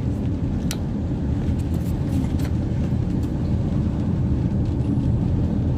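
Car driving over a bumpy road, heard inside the cabin: a steady low rumble of tyres and road, with a few sharp knocks and rattles as the car jolts.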